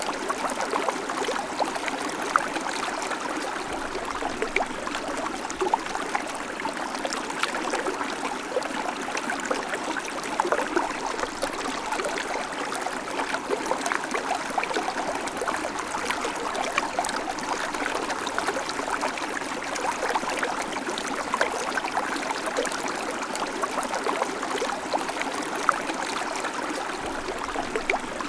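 Babbling creek: shallow water running and splashing over stones in a steady, even rush, with small bright splashes and trickles throughout.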